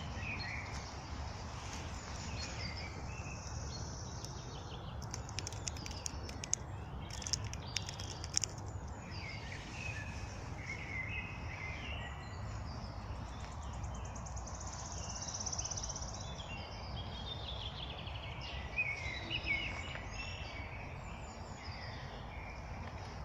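Several songbirds singing and chirping in a spring forest, with overlapping short phrases and a fast high trill about halfway through, over a steady low rumble of background noise. A few sharp clicks come in the first half.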